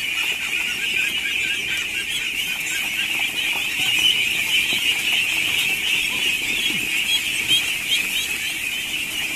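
A dense, continuous mass of high-pitched calls from many poultry at once, overlapping into a steady shrill chorus.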